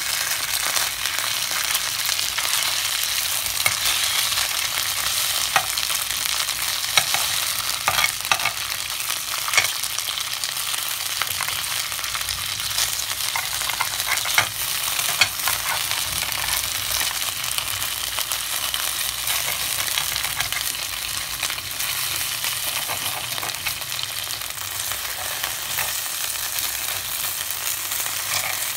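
Skinless longganisa sausages and chopped onion and garlic sizzling in oil in a frying pan, a steady hiss. A spatula scrapes and knocks against the pan now and then as the sausages are turned, giving scattered sharp clicks.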